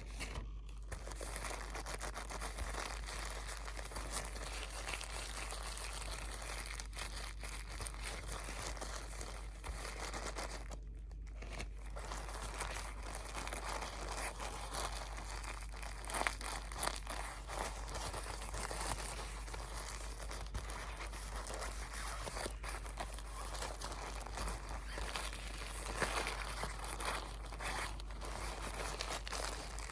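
Close-miked crinkling and crumpling of crinkly material handled by hand, a near-continuous dense crackle with a short pause about eleven seconds in.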